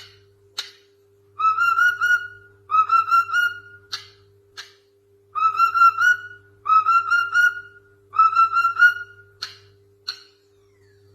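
Pet parrot whistling a short tune over and over: about five phrases of three or four quick, clear notes each, with short sharp chirps in between.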